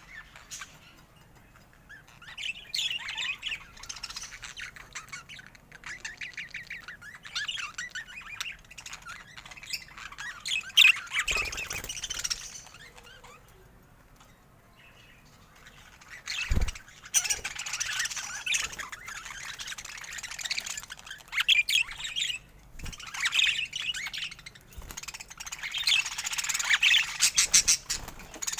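Budgerigars chattering and chirping in rapid warbling bursts, with a lull about halfway through and a short low thump just after it.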